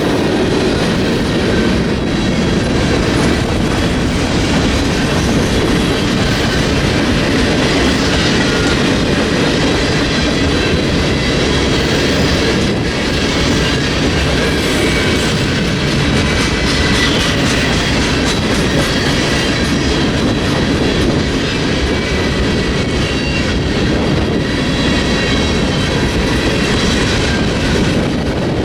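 Freight train cars rolling past on the rails, a steady loud rumble with faint high squealing tones from the wheels.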